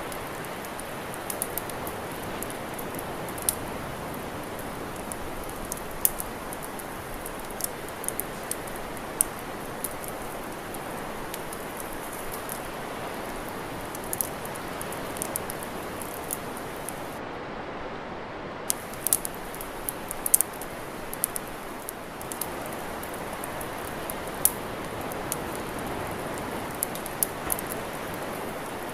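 Wood campfire crackling: irregular sharp pops and snaps, several of them loud, over a steady rushing hiss.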